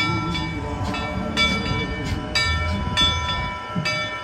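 A railroad bell ringing repeatedly, each new stroke coming before the ring of the last has died away.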